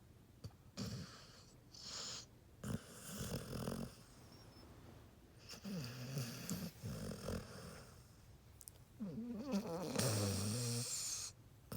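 A sleeping dog snoring: a run of rasping, wavering breaths every two to three seconds, the last one the loudest and longest.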